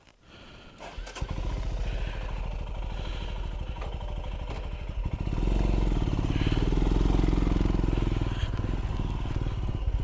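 Royal Enfield Himalayan's single-cylinder engine starting about a second in and then running with an even pulsing beat; it gets noticeably louder about five seconds in.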